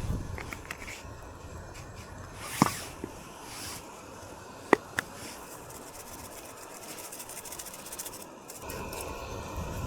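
Wind noise with a few sharp cracks or snaps, two pairs of them a few seconds in; the wind picks up again near the end.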